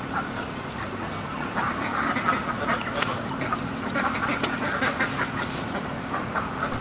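Ducks quacking and chattering in a group: many short overlapping calls that grow busier a second or two in.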